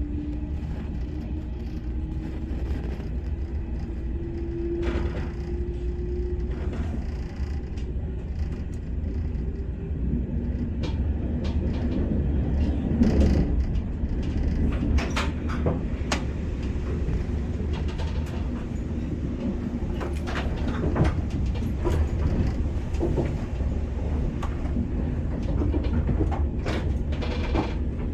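Cabin sound of an SRT 120000-series high-speed electric train on the move: a steady low rumble with a faint whine rising slowly in pitch over the first several seconds, and scattered light clicks and knocks.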